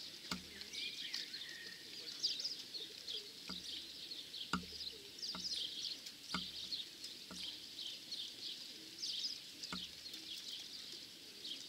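Many small birds chirping rapidly and continuously, with about eight short, soft knocks scattered through the chirping.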